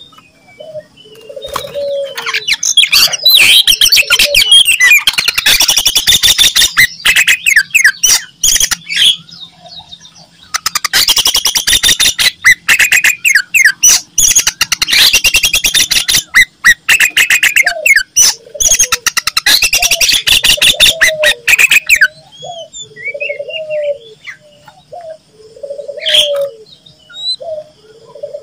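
Oriental magpie-robin (kacer) singing loudly in two long bursts of rapid, dense chattering and whistled phrases. The second burst cuts off suddenly about two-thirds of the way through. In the pauses another bird gives a low call, repeated about once a second.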